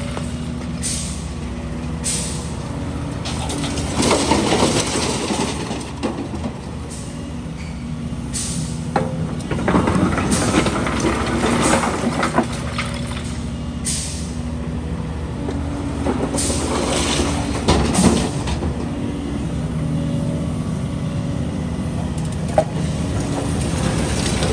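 Heavy diesel machinery running steadily, from an excavator and trucks. Short hisses and knocks recur every second or two, with louder surges around four, ten and seventeen seconds in.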